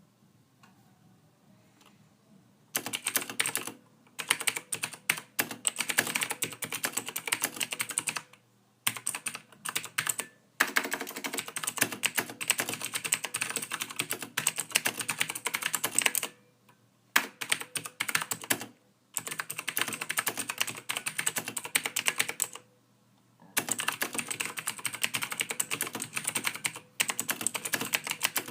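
Typing on a computer keyboard: rapid runs of key clicks in bursts of a few seconds, broken by short pauses, starting about three seconds in after near quiet.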